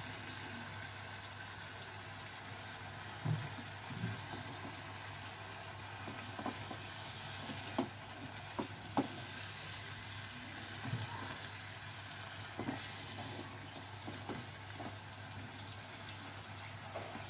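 Chicken and tomatoes sizzling in a nonstick wok, with a silicone spatula stirring and pressing the tomatoes and knocking lightly against the pan now and then.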